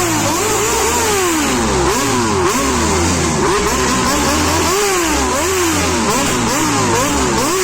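Several motorcycle engines revved over and over at the same time, their pitches repeatedly rising and falling and overlapping.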